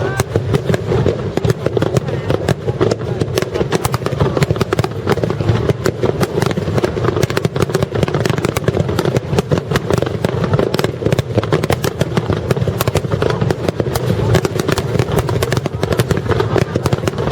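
Dense fireworks barrage: rapid, continuous crackling and popping, many sharp reports a second, over a steady low rumble.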